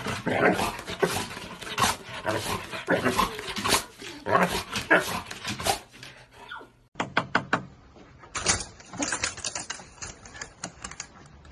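A dog barking and whining over and over. About seven seconds in, the sound cuts to a run of quick sharp taps.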